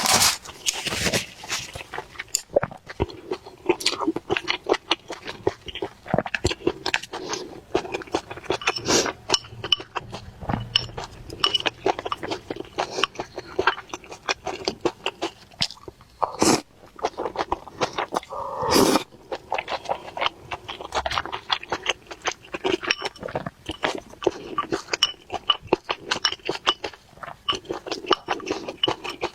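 Close-miked chewing and mouth sounds of someone eating chili-sauce dumplings and liangpi cold skin noodles: dense, irregular wet clicks and smacks, with a few louder, longer mouth noises past the middle.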